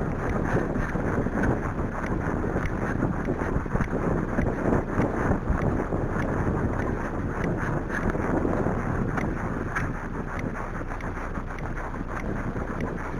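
Wind buffeting the microphone of a rider on a briskly trotting horse: a steady rushing noise with faint knocks running through it.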